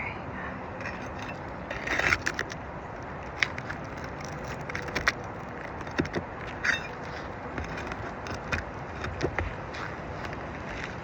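Asphalt 3-tab shingles being pried loose from their adhesive seal strips with a hand tool: scattered short scrapes, crackles and metallic clicks over a steady background hiss.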